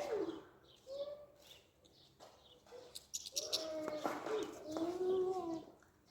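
Birds calling: short, sharp high chips scattered throughout, with low, wavering cooing notes in the second half.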